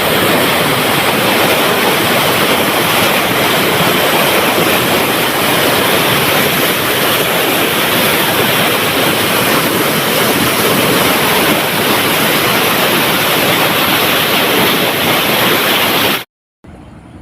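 Loud, steady rushing of water falling through a dam's spillway, cut off abruptly near the end.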